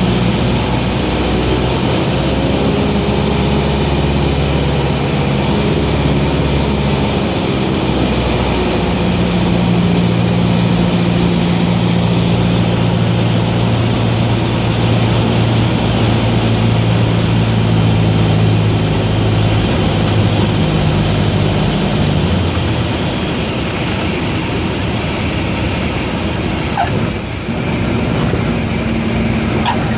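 Cessna 172's piston engine and propeller running steadily at low power during a landing, with rushing noise throughout; the engine note changes about two-thirds of the way through.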